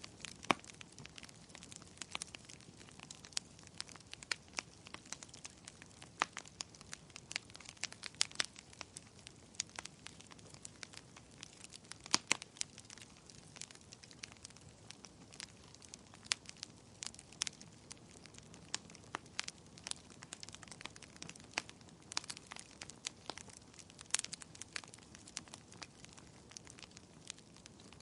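Fire crackling: irregular sharp pops and snaps over a soft steady hiss, with a few louder snaps.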